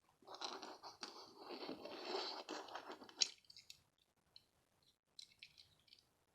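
Scratching and rustling of something being handled for about three seconds, ending in a sharp click, then a few faint clicks and scrapes.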